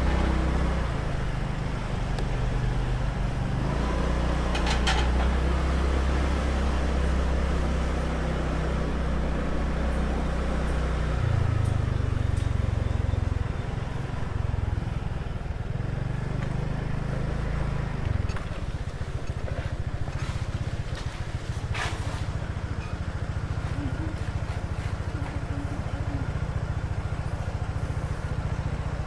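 Small motor scooter running along the road, its low engine drone mixed with road and wind noise; the drone steps to a different pitch about a third of the way in and again past halfway.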